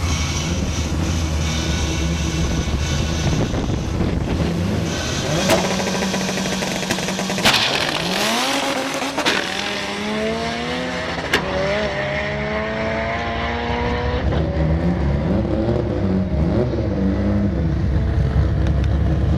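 Turbocharged Honda Civic engine at a drag-strip start line, rumbling low, then launching about seven seconds in and accelerating hard: the engine note climbs, drops at each gear change and climbs again several times, with a few sharp cracks along the way.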